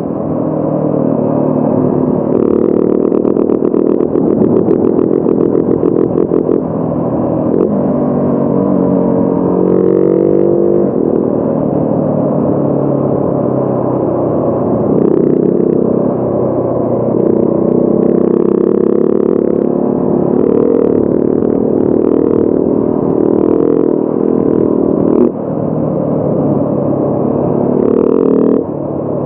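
Motorcycle engine pulling under way, its pitch climbing as it revs and then dropping at several gear changes.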